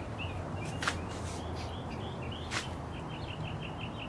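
A bird chirping over and over in short, quick notes that speed up toward the end, with two sharp clicks, one about a second in and one about two and a half seconds in.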